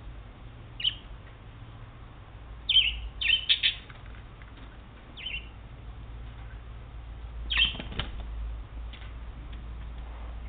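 Budgie giving short, falling chirps: one about a second in, a quick run of four around three seconds in, another near five seconds, and a last one near eight seconds.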